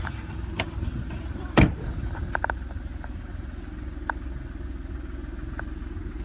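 Skoda car engine idling with a steady low rumble. There is one loud knock about a second and a half in, then a few light clicks.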